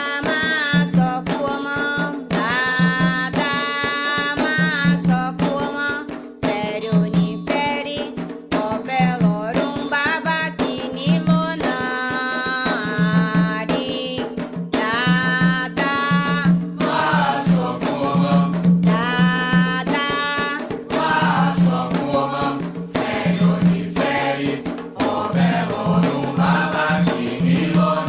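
Music: ritual chant sung in Yoruba over drums beating a steady, repeating rhythm.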